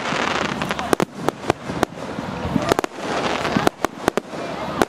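Fireworks going off: a rapid series of sharp bangs and cracks, irregularly spaced, over a rising and falling crackling hiss.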